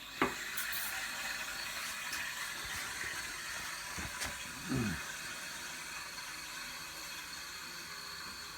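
Coffee machine's steam wand hissing steadily while heating milk, with a sharp click just after the start.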